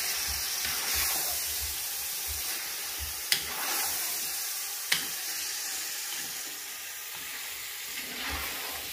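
Chicken, peas and carrots sizzling in a pan as they are stirred, the stirring utensil knocking sharply on the pan twice.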